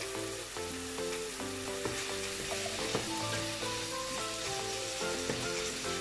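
Chicken pieces sizzling steadily in a frying pan just after a splash of lemon juice, stirred with a wooden spatula that scrapes lightly against the pan. Soft background music plays underneath.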